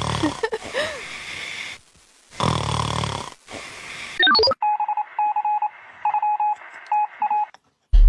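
A sleeping dog snoring with noisy breaths, then a quick rising run of tones and a string of short, evenly pitched electronic beeps like phone dialing tones.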